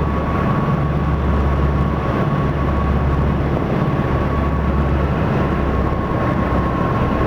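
A Piper Seneca's twin piston engines running steadily, heard close up as a deep even drone with a thin steady high tone above it.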